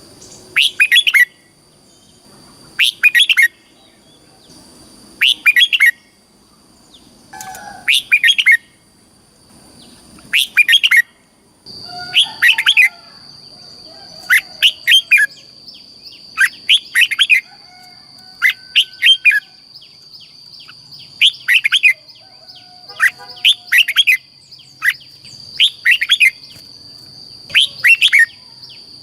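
Red-whiskered bulbul singing: short, loud, bubbling song phrases repeated roughly every two seconds, the kind of song played to caged bulbuls to stir them up and teach them to sing.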